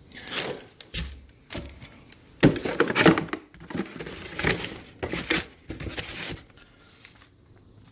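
Unboxing sounds: packaging rustling and being handled in irregular bursts, with a sharp knock about two and a half seconds in.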